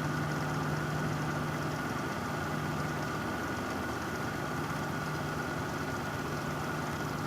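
Vehicle engine idling, a steady, unchanging hum.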